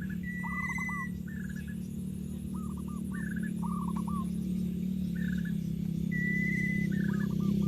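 Birds calling repeatedly in quick clusters of three or four short falling notes, with two longer whistled notes, over a steady low hum that grows louder toward the end.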